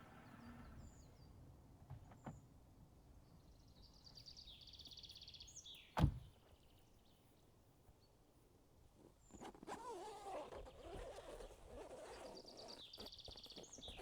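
Faint forest ambience with a small bird singing a quick high trill twice. A single sharp knock about six seconds in is the loudest sound.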